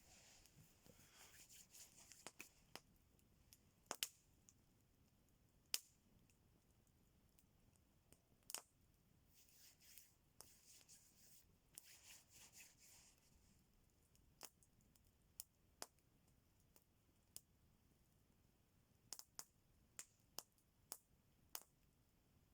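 Faint campfire crackling: sporadic sharp pops and snaps, several in quick succession near the end, over a soft intermittent hiss.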